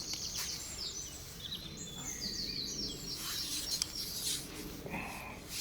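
Small songbirds singing in high, rapid chirping phrases over a low, steady outdoor background noise.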